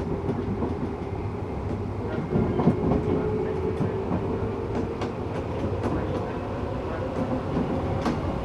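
Tokyu 8500 series electric train heard from inside the car while running, with the whine of its Toyo-made traction motors slowly rising in pitch as it gathers speed. Wheels give irregular clicks over rail joints under a steady rumble.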